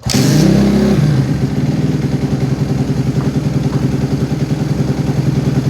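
A 250cc four-stroke dirt bike engine catches on a cold kick start, revs briefly in the first second, then settles into a steady idle.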